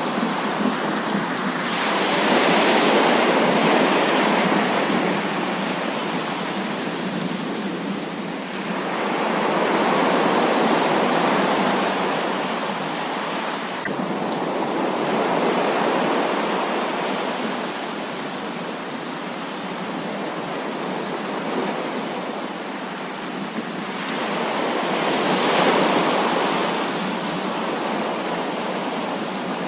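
Heavy rain falling steadily, swelling louder and easing off several times.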